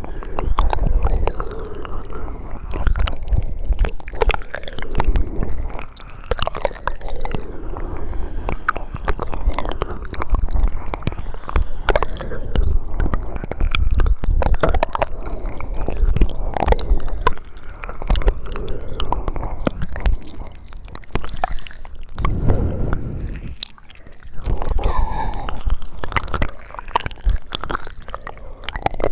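Close-miked ASMR mouth sounds: a dense, irregular run of small clicks and smacks from lips and tongue.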